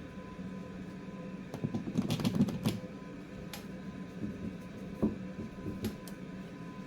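Small hand tools clicking and tapping against a circuit board on a repair bench: a quick flurry of light clicks about two seconds in, then a few single clicks, over a steady electrical hum of bench equipment.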